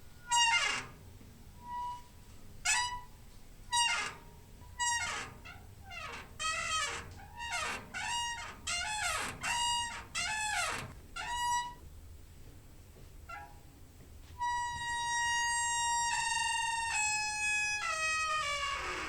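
Door hinge squeaking: a run of short creaks, some sliding down in pitch, coming faster in the middle. After a pause, one long drawn-out squeal starts and drops in pitch in a few steps near the end.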